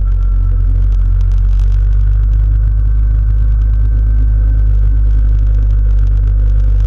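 Yamaha Drag Star's V-twin engine running steadily as the motorcycle cruises along the road.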